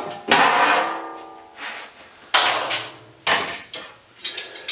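Scrap metal pieces clanking and ringing: about five separate metallic knocks, the first with the longest ringing decay.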